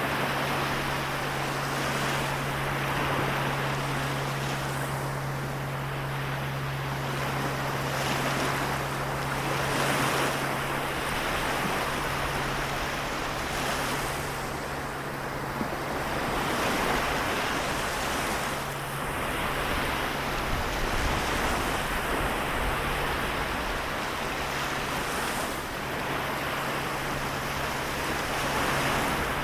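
Small waves of the Seto Inland Sea washing on the shore, the surf swelling and easing every few seconds. A steady low hum runs underneath.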